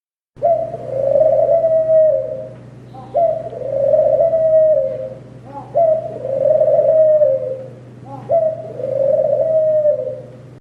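A dove cooing: four long, rough calls about two and a half seconds apart, each opening with a short rising note and then sliding slowly down, over a steady low hum.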